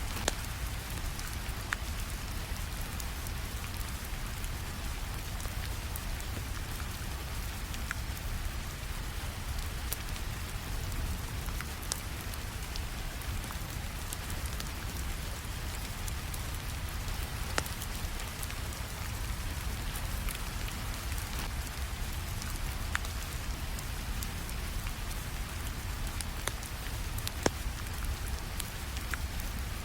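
Steady rainfall with a low rumble beneath it, and scattered sharp pops and clicks from a crackling log fire.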